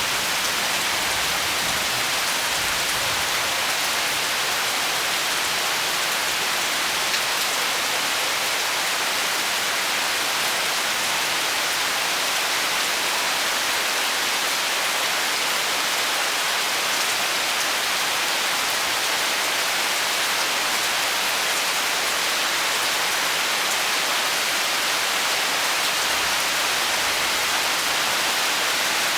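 Heavy tropical rain falling steadily, a continuous even hiss of drops on surfaces.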